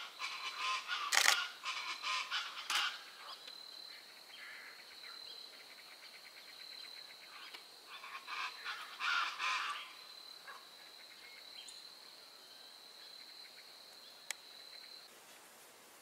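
Birds calling in short, rapid stuttering series, loudest at the start and again around eight to ten seconds in, over a steady high-pitched tone that runs from about three seconds to near the end. A single sharp click comes near the end.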